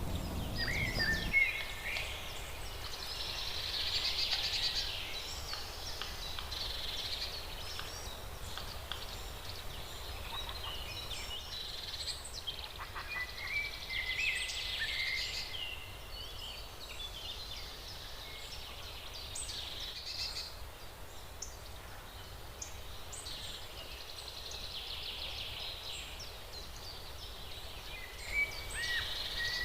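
Several wild birds chirping and calling, with short whistled notes and a hazy trill that comes back several times.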